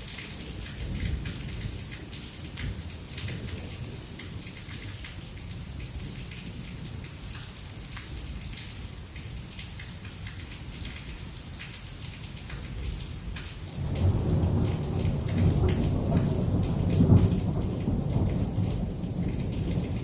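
Heavy rain falling steadily in a thunderstorm, with a patter of drops. About two-thirds of the way through, a loud rumble of thunder rolls in and keeps rumbling to the end.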